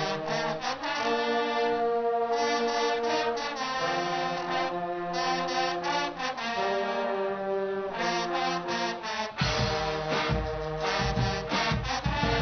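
Guggenmusik carnival brass band playing long held brass chords, with drums and percussion coming in strongly about three-quarters of the way through.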